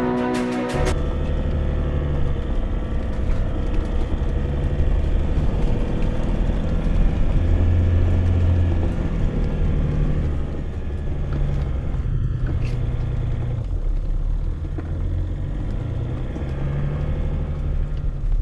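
Car driving: a steady low rumble of engine and road noise, its low pitch shifting up and down.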